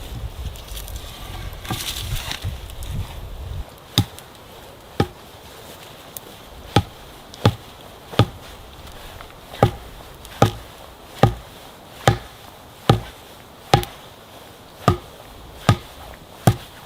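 Wood being chopped with steady, regular blows, about fourteen sharp strikes a little under a second apart. They start about four seconds in, after a low rumbling noise.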